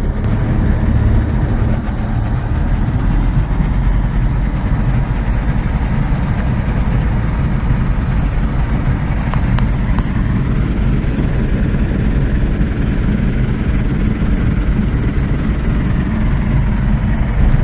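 Light aircraft's piston engine and propeller running steadily, heard from inside the cockpit.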